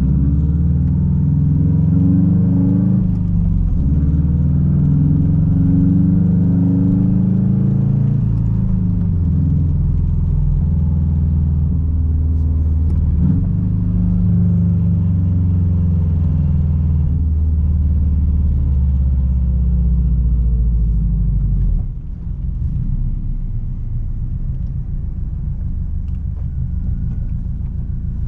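Straight-piped exhaust of a Subaru WRX STI's turbocharged flat-four running loud under way, its pitch rising and falling as the revs change. About 22 seconds in the engine note drops to a quieter, lower, steadier run.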